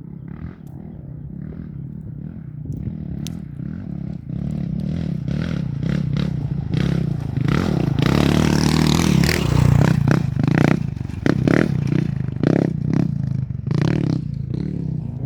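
Off-road race motorcycle approaching on a dirt course, its engine growing louder to a peak about eight to ten seconds in, with scraping and clattering of dirt and stones.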